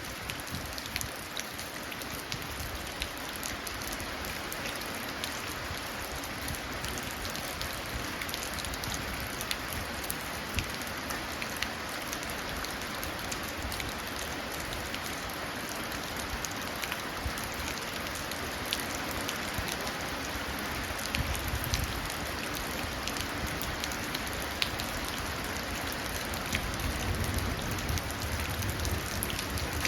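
Steady rain falling and running down into a puddle, with scattered sharp drip ticks. A low rumble of distant thunder swells in the last third.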